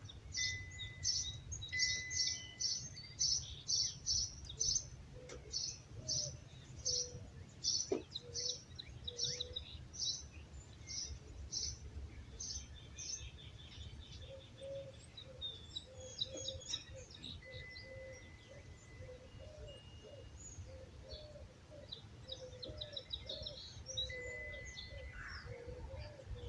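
Songbirds calling in a dawn chorus. One bird repeats a sharp high chirp about twice a second through the first half, then trills take over. A lower, wavering call repeats through the second half over a steady low rumble.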